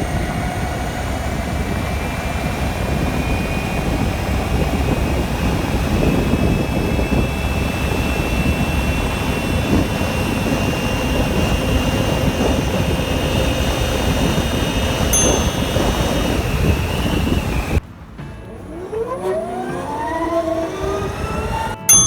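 Ather 450X electric scooter accelerating hard on the road: heavy wind and road noise with a thin electric-motor whine slowly climbing in pitch as speed builds. About 18 seconds in it cuts off abruptly to a quieter set of rising, sweeping tones.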